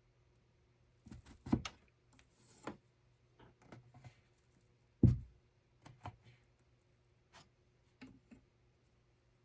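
Irregular light knocks, clicks and rustles of hand work at a hand loom, with one heavier wooden thump about five seconds in.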